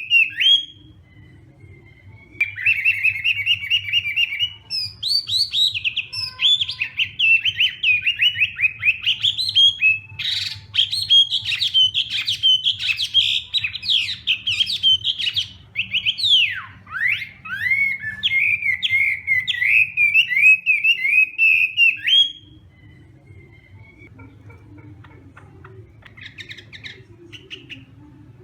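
Chinese hwamei (melodious laughingthrush) singing a long, varied, loud song of rapid trills and slurred whistled phrases, which breaks off about 22 seconds in. A few faint calls follow near the end, over a steady low hum.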